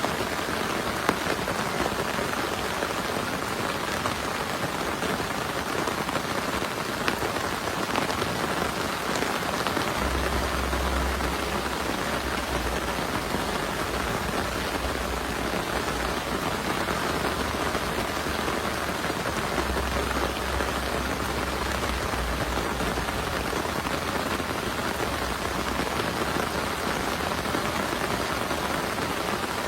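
Heavy rain falling steadily. About ten seconds in, a low rumble joins it and lasts around fifteen seconds.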